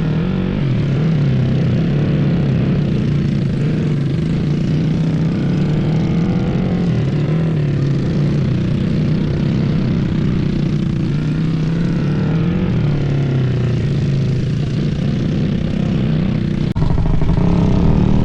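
Small mini bike engines running, the pitch rising and falling a little as the throttle changes. About three-quarters of the way through, the sound breaks off and comes back a little louder.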